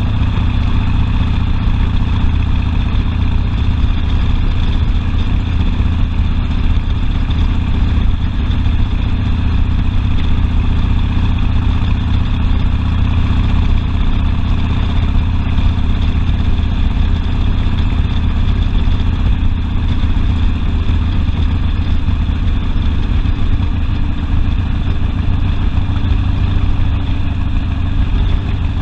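Harley-Davidson Sportster V-twin engine running steadily, with no revving.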